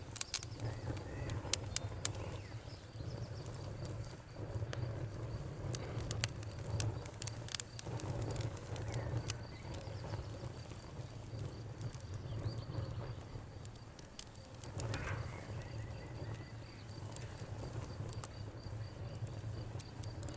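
Campfire burning: wood crackling with scattered sharp pops over a low, swelling rumble of the flames, with crickets chirping steadily throughout.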